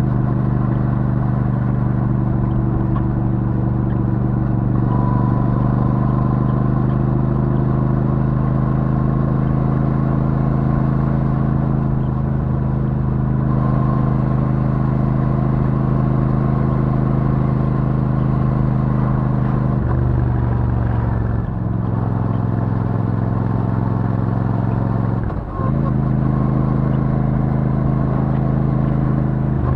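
Royal Enfield Super Meteor 650's 648 cc parallel-twin engine running through its stock exhaust at steady cruising revs. The note drops for a moment about twenty seconds in, then settles again, with another brief dip about twenty-five seconds in.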